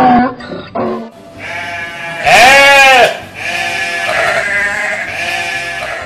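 Livestock calling: a loud drawn-out call about two seconds in that rises and then falls in pitch, followed by several weaker calls.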